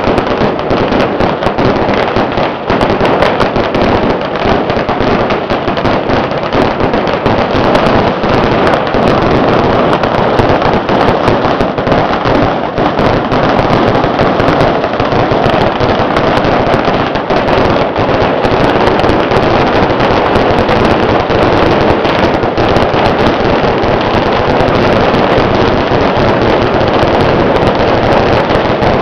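Massed firecrackers going off in a loud, dense, unbroken crackle of countless rapid bangs, with no pause throughout.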